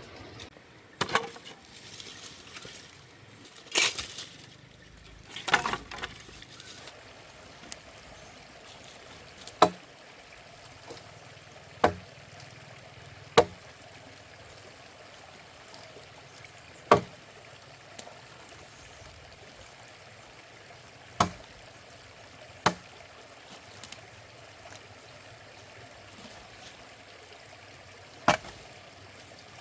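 Blade chopping into the wood of a felled tree for firewood: single sharp blows a few seconds apart, seven in all, with a few longer, rougher noises in the first few seconds.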